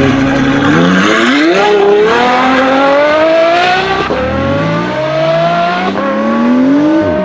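Car engine accelerating hard through the gears: its pitch climbs steadily, then drops back at each of several gear changes, about four times.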